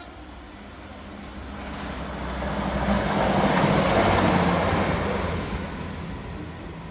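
A train passing at speed: a rushing noise with a low hum underneath that builds to a peak about four seconds in, then fades away.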